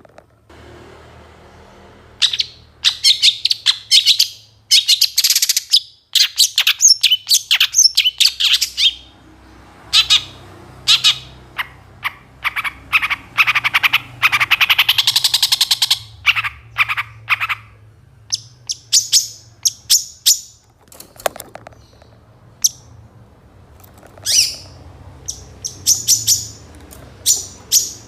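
Long-tailed shrike (pentet) singing a loud, varied song of rapid chirps, trills and mimicked calls of other birds, in quick bursts with short pauses. A dense run of song comes near the middle, and a faint steady low hum lies under it.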